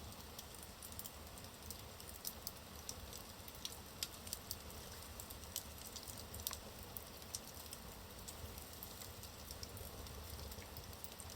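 Wood fire burning in a fireplace: a soft steady hiss with irregular small crackles and pops from the logs, a few sharper pops standing out.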